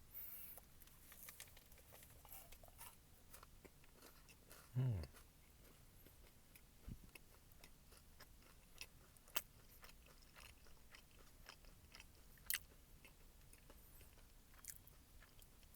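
Faint chewing of a crunchy peanut granola bar, with scattered soft crunches and a few sharper crackles, and a short hummed "mm" about five seconds in.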